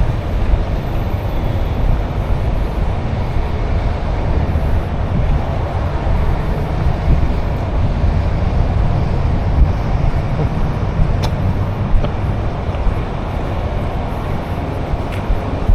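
Outdoor city street noise: a steady, heavy low rumble of traffic, with a couple of sharp clicks late on.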